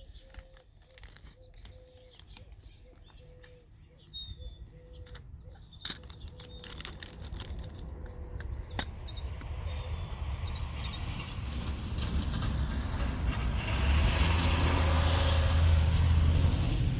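A vehicle approaching and passing, its deep rumble growing steadily louder over about ten seconds and loudest near the end.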